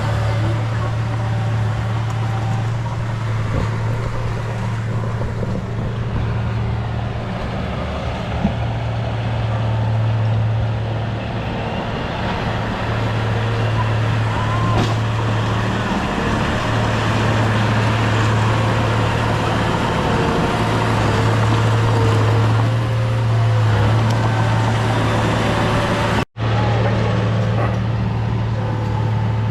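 Heavy diesel engine of a bulldozer running steadily with a deep, constant hum. The sound cuts out completely for a moment near the end.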